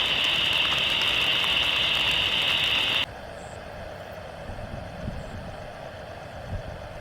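Aircraft engines running loud with a steady high whine, which cuts off suddenly about three seconds in, leaving a much quieter steady engine hum with a few soft low thumps.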